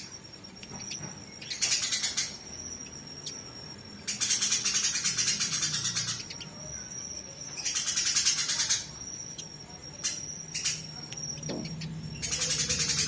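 Eurasian tree sparrows fighting: bursts of rapid, harsh high chattering, each a second or two long, coming every few seconds. Between the bursts a thin, steady high tone is heard with a few ticks.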